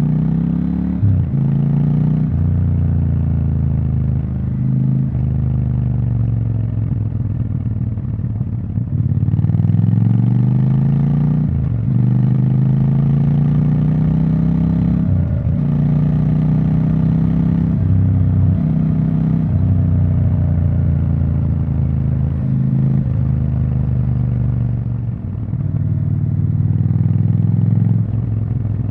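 Triumph Scrambler 1200 XE's 1200 cc parallel-twin engine and exhaust revving repeatedly. The pitch climbs over a couple of seconds, then drops sharply, again and again.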